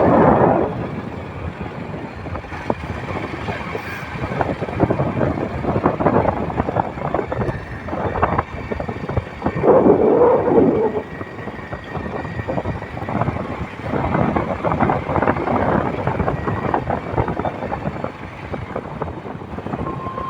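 Motorcycle riding: wind buffeting the microphone over the running bike, an uneven rushing noise with louder gusts at the start and about ten seconds in.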